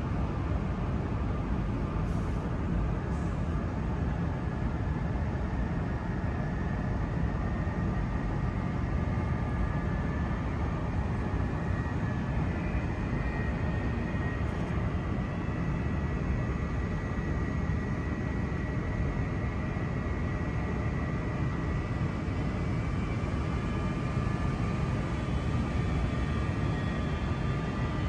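Steady low rumble with a few faint, steady whining tones from a double-deck electric commuter train standing at the platform with its onboard equipment running; one whine slowly rises in pitch over the second half.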